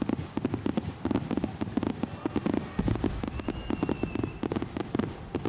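Aerial fireworks going off at close range in a rapid run of sharp bangs and crackles, several a second, with a heavier boom about three seconds in.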